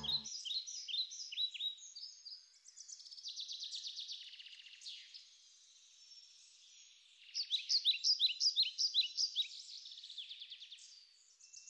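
Small songbirds chirping: runs of quick, high, downward-sweeping chirps and a rapid trill, with a short lull about halfway, then a louder run of chirps.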